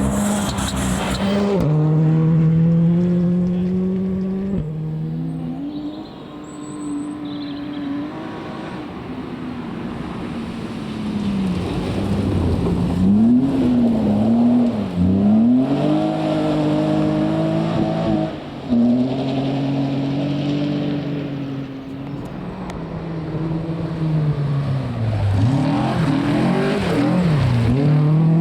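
Rally car engine at full effort on a stage, its revs climbing and dropping again and again with gear changes and lifts off the throttle.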